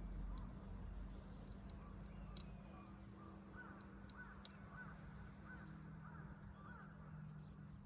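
Wood fire burning in a rusty can, with a few faint sparse crackles over a low steady hiss. In the second half a bird gives a run of about six short, repeated calls.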